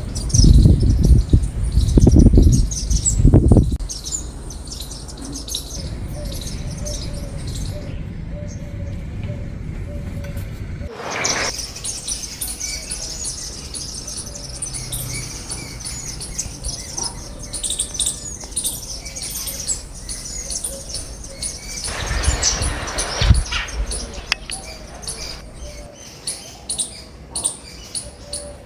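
Small garden birds chirping steadily with many quick, high calls. Deep low rumbling bursts come in the first few seconds and again about two-thirds of the way through.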